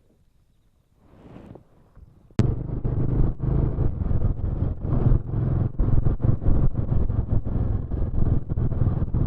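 Motorcycle engine running under way, with wind rushing over the microphone, starting abruptly about two and a half seconds in after near quiet.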